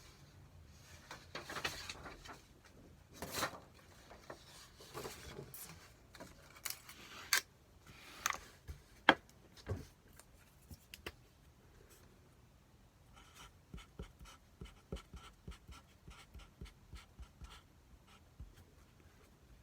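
Eating jeyuk bokkeum (spicy stir-fried pork): scattered clicks and rustles from utensils and plastic delivery containers, with one sharp click about nine seconds in. From about two-thirds of the way through, steady close chewing at about two or three chews a second.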